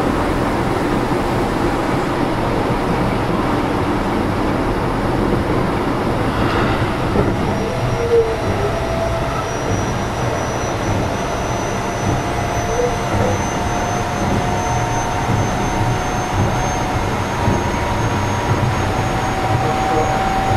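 Keio 7000-series electric train running, heard from inside car 7029: a steady rumble of wheels on rail, with a faint whine that rises slowly in pitch as the train picks up speed.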